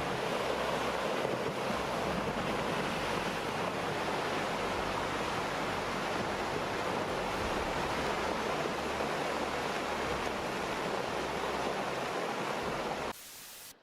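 Steady outdoor rushing roar with a low rumble underneath and no distinct impacts, cutting off sharply about a second before the end.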